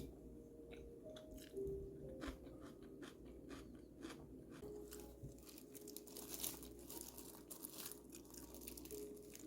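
Irregular crunching and crackling, many small sharp clicks that grow denser in the second half, over faint steady background tones.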